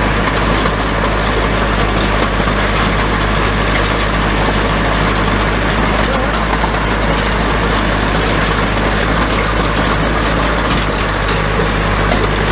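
Small tractor's engine running steadily under load while pulling a hay rake across the field.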